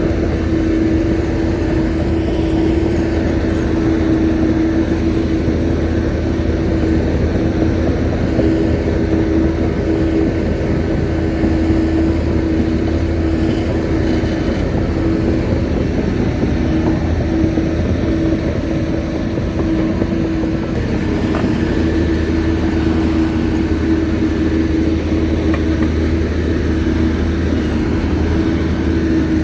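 Shantui bulldozer's diesel engine running steadily under work, a constant whine over a low drone.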